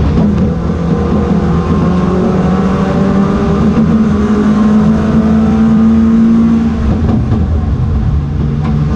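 Race car engine pulling hard under acceleration. Its pitch climbs slowly for about five seconds, then drops about seven seconds in.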